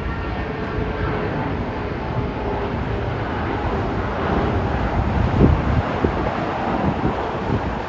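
Jet airliner engine noise, a steady rush with a fading whine early on, with wind buffeting the microphone in gusts later.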